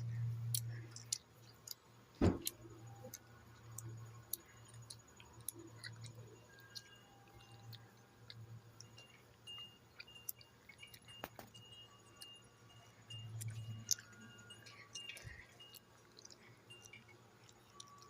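Metal wind chimes clinking and ringing in the wind: scattered light clinks with short ringing tones, and one louder clank about two seconds in. A low rumble of wind on the microphone rises and falls underneath.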